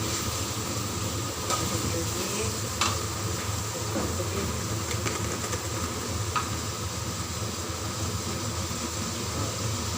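Chicken sizzling in hot oil and spices in a cooking pot, with a few knocks and scrapes of a spoon against the pot as it is stirred.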